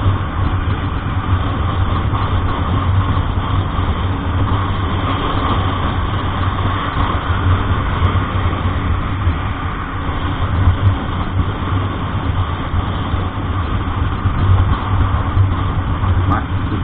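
Truck engine running steadily, a low drone with road noise over it.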